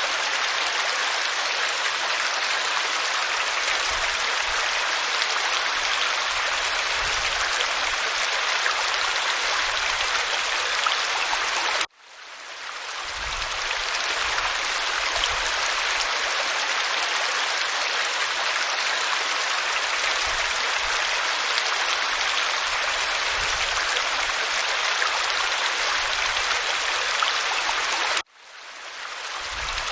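Waterfall spilling over rock, a steady rushing of water. The sound cuts out abruptly about twelve seconds in and again near the end, fading back in each time, as at the seams of a looped recording.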